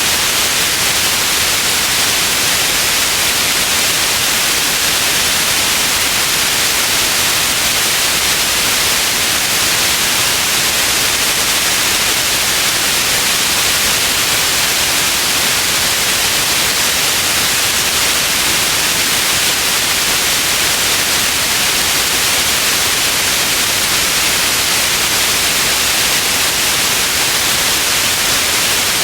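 Steady white noise: an even hiss, brightest in the treble, with no change or events.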